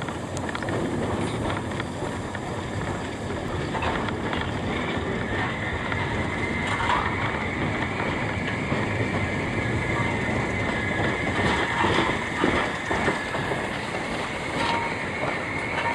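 Heritage train double-headed by an LMS Black 5 steam locomotive and a Class 26 diesel, heard from on board: running steadily with the wheels clattering over the rails. A high steady squeal comes in about five seconds in and fades out over the next several seconds.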